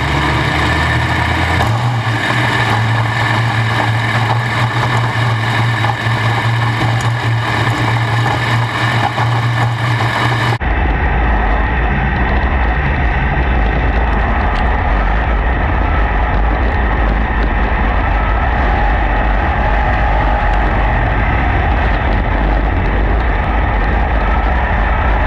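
Sprint cars' V8 engines running at speed on a dirt oval during hot laps, a loud steady drone of several cars at once. About ten seconds in the sound changes abruptly to a lower, duller drone at a cut to another stretch of the session.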